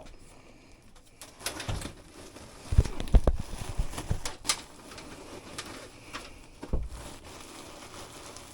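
Scattered knocks and clunks of a dehumidifier and ductwork being handled, with a cluster of heavy low thumps about three seconds in.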